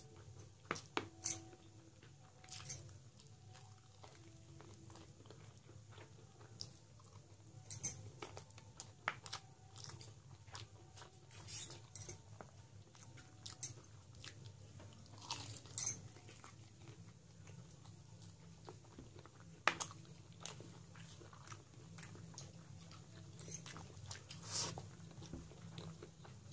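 Close-up chewing and mouth sounds of a man eating rice and mutton curry by hand: wet smacks and sharp clicks at irregular intervals over a steady low hum.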